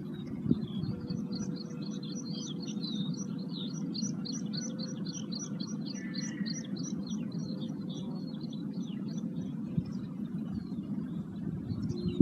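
Wild bird singing: a long, quick run of high, evenly repeated notes lasting about eight seconds, over a steady low background rumble and a faint held tone.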